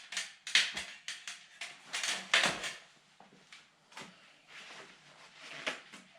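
Irregular knocks, clunks and scrapes of hands handling objects and parts, several sharp ones in the first half, then quieter rustling.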